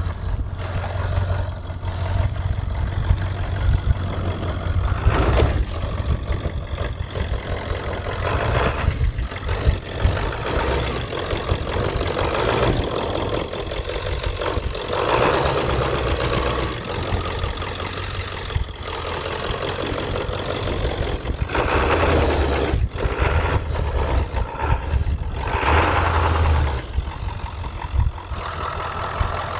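Ford 7.3 L Power Stroke V8 turbo-diesel pickup engine running under load while the truck is driven through deep snow, its sound swelling and easing several times as the throttle is worked.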